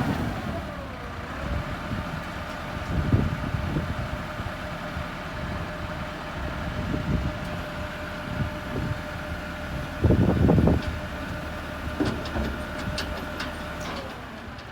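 A vehicle engine running at steady revs. Its pitch drops about a second in and again just before the end, with heavy clunks, the loudest a cluster about ten seconds in.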